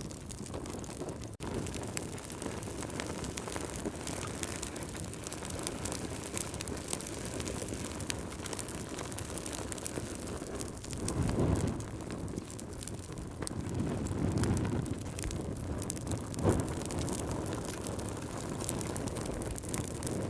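Campfire burning with a steady hiss and frequent small crackles and pops, swelling twice into a louder low rush around the middle.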